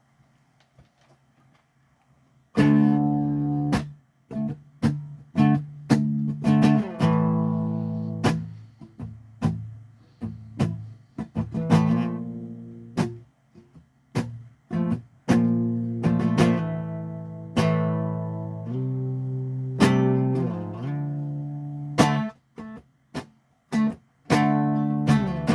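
Guitar starting to play about two and a half seconds in: chords struck again and again, each ringing out and fading, as the instrumental opening of a song.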